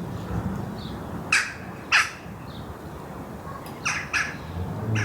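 A large bird gives four loud, short calls, two pairs about a second and a half into the sound and again near the end, over steady wind blowing through trees.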